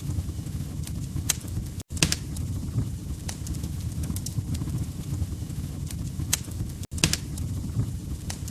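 Wood fire crackling in a fireplace: a steady low rumble of burning logs with irregular sharp pops and snaps. Twice, about five seconds apart, the sound cuts out for an instant, each time followed by a loud pop.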